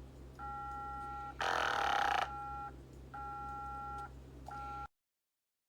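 Electronic beeping tones in on-off blocks over a steady low hum, with a short loud burst of hiss about one and a half seconds in; the sound cuts off abruptly near the end.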